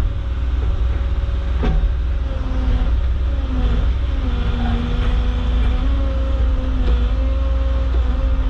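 Caterpillar 307.5 mini excavator's diesel engine running steadily while the hydraulics are worked, its pitch wavering slightly under load. A single sharp click about two seconds in.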